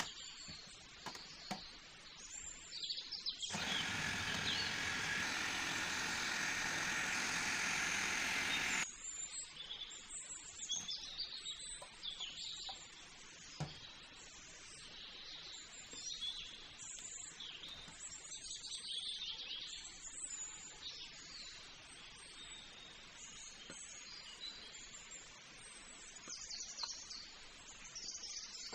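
Birds chirping and calling in the background. About three seconds in, a loud steady rush of noise starts abruptly, lasts about five seconds, then cuts off suddenly.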